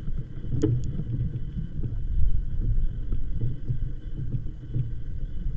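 Wind buffeting the microphone while cycling, heard as a low, uneven rumble.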